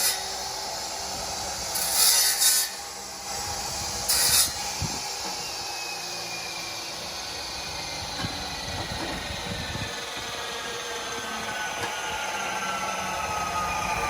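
Power saw cutting through a car's exhaust pipe to remove the mid muffler, a steady grinding rasp with two short louder hissing bursts about two and four seconds in. A faint whine slowly falls in pitch through the second half.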